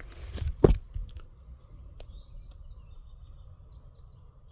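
A single dull thump about half a second in, then quiet outdoor background with a few faint clicks and a faint high chirp.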